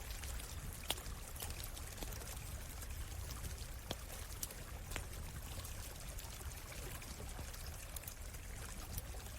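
A stream running steadily, with a scattering of sharp crackles and pops from a wood campfire, the loudest about a second in.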